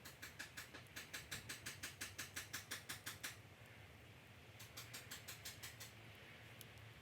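A knife blade scraping fatwood in quick short strokes, about six a second, in two runs with a pause between them.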